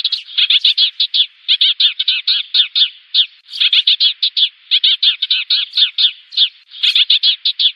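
Sparrows chirping loudly in quick runs of short chirps, several a second, with brief pauses between runs: a sparrow lure call used to draw a flock in for trapping.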